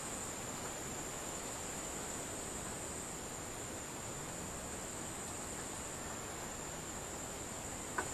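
Steady outdoor background hiss with a constant high-pitched insect drone, and one short sharp click near the end.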